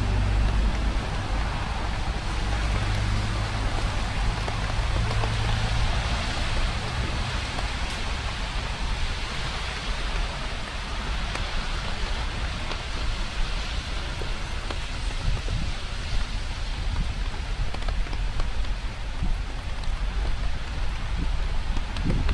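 Steady rain falling, an even hiss of drops. In the first few seconds a low engine hum from passing traffic fades out.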